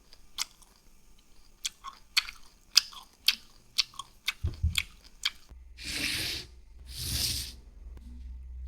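Close-miked crunching of food: about ten sharp, crisp clicks spread over five seconds, then two longer hissing swells about a second apart.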